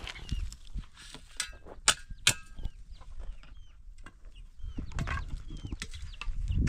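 Birds chirping repeatedly in short calls, with a few sharp knocks around two seconds in.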